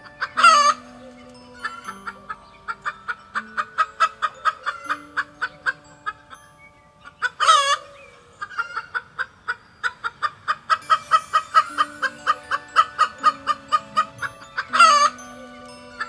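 Chickens clucking in fast, even runs of about three to four clucks a second. Three loud, short calls break in, about seven seconds apart.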